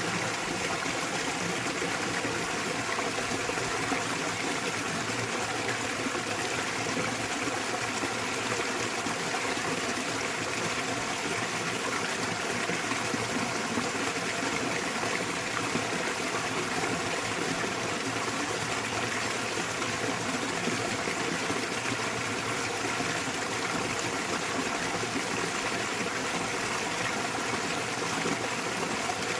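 Small waterfall in a mountain stream: water falling and running over rocks in a steady, even rush that does not change.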